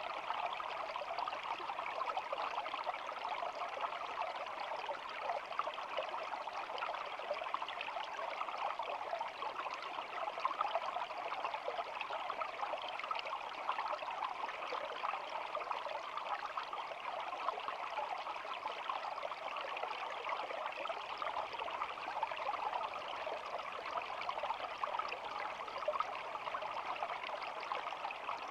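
Shallow stream babbling and trickling steadily.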